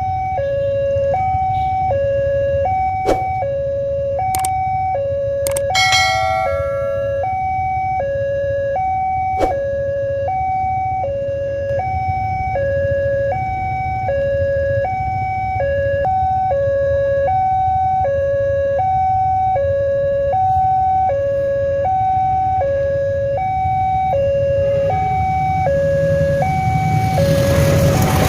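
Railway level-crossing warning alarm sounding its two-tone hi-lo signal, switching between the two notes about once a second, over a steady low rumble of traffic. Near the end a rushing noise builds as a train approaches.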